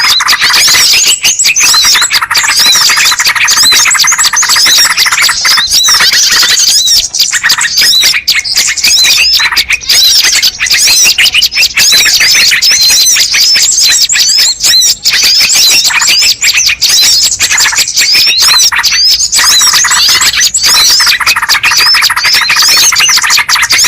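Dense, loud chorus of many small birds chirping and calling over one another in rapid high notes, as used in a bird-lure recording. A lower trilling layer sounds at the start, fades out after about five seconds, and returns near the end.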